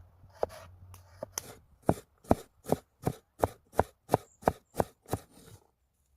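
A knife chopping food in repeated strikes: a few uneven cuts, then about two seconds in a steady run of roughly two and a half chops a second that stops shortly before the end.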